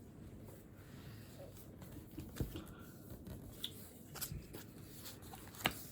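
Desk handling noises at a study desk: a few sharp taps and knocks, the loudest near the end, over faint rustling.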